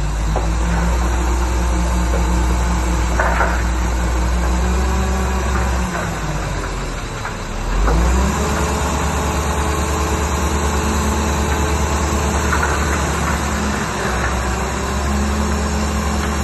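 Shantui DH17C2 bulldozer's diesel engine running steadily under load, its pitch dipping and then picking back up about six to eight seconds in, with a clank about three seconds in.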